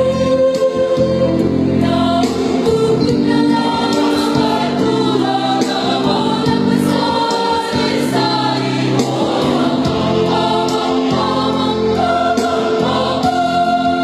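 A choir singing, many voices in held chords that change every second or two.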